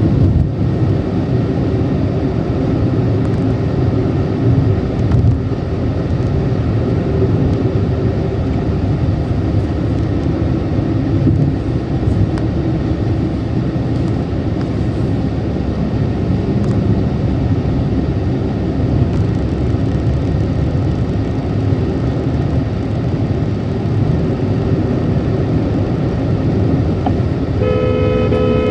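Car driving at high speed: steady engine and road noise, with a horn sounding for about a second near the end.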